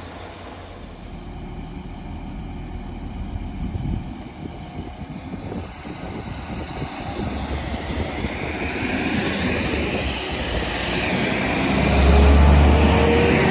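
A passing train growing steadily louder as it approaches, loudest about twelve seconds in as it goes by, with a deep rumble and a gliding whine.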